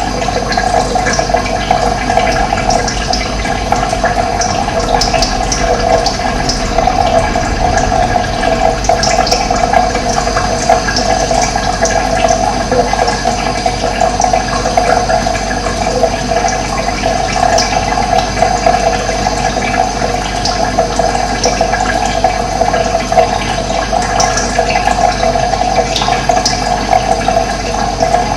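Running water flowing steadily, with brief high bird chirps scattered over it.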